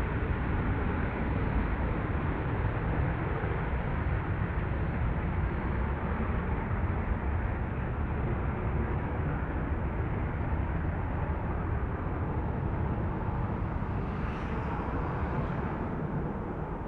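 Steady jet engine noise from an F-35B Lightning's Pratt & Whitney F135 engine, an even rushing sound heaviest in the low end, easing off slightly near the end.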